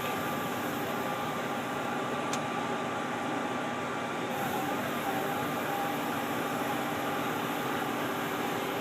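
Steady mechanical hum of a Ferrara aerial fire truck's engine and ladder hydraulics, heard from up in the platform bucket, with a faint click about two seconds in.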